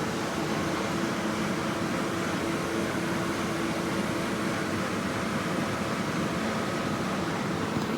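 Mini crawler dumper's engine running steadily with an even mechanical hum.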